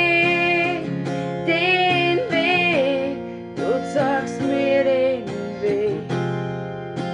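Song: strummed acoustic guitar with a voice singing a wordless, bending melody over it.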